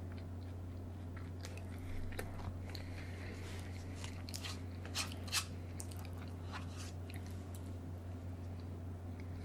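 Close-miked chewing and crunching of food, with a run of sharper crunches about halfway through, over a steady low hum.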